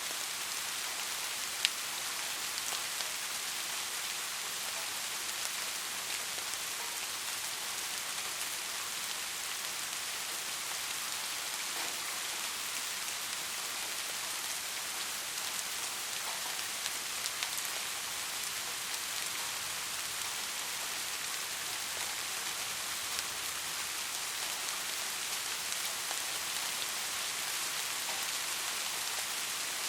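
Steady rain falling, a dense hiss of drops with scattered louder individual drop ticks and one sharp tick about a second and a half in.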